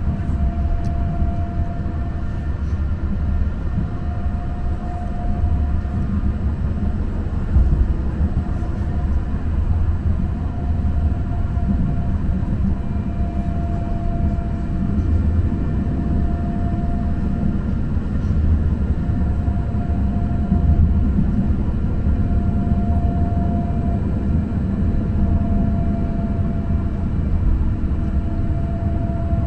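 Muni Metro light-rail car running along the track, heard from inside: a steady low rumble with a whine that swells and fades about every two seconds.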